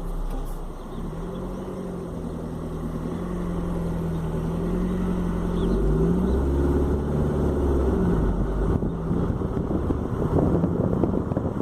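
Fiat Bravo T-Jet's 1.4 turbo four-cylinder engine running through its exhaust, the car at the centre of a complaint about a strange exhaust noise. The engine note holds steady, then shifts up and down in pitch about six seconds in and grows louder and rougher toward the end.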